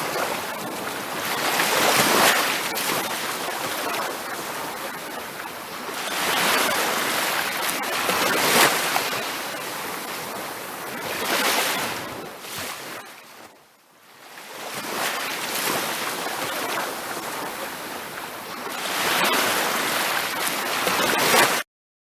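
Ocean surf: waves breaking and washing up a beach, swelling every few seconds and easing off between them, with a near-lull about two-thirds of the way through.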